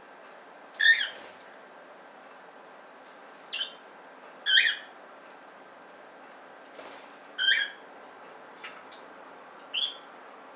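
Budgerigar giving about five short, loud chirps, a second or more apart.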